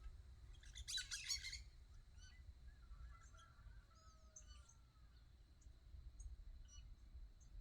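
Wild birds calling: a short, dense flurry of rapid chirps about a second in, the loudest sound, followed by fainter whistled notes that slide in pitch and a few scattered single chirps.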